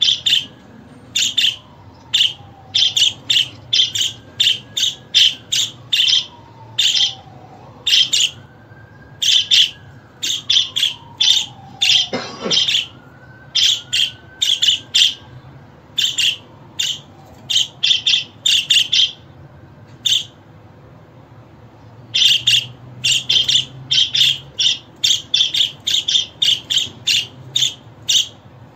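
Budgerigar chirping: runs of short, sharp, high chirps in quick succession, broken by a pause of about two seconds around two-thirds of the way through. Fainter sliding whistles rise and fall underneath in the first half.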